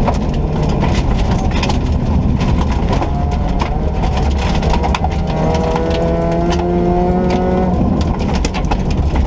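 Ford Ka rally car driven hard on a rally stage: a loud, steady rumble of engine and road noise with frequent sharp clicks and knocks. A few seconds past the middle the engine note stands out clearly for about two seconds before it sinks back into the noise.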